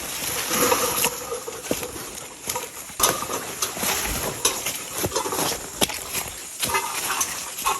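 Footsteps crunching and snapping through dry leaf litter and undergrowth on the forest floor, irregular crackles and knocks, over a steady high insect drone.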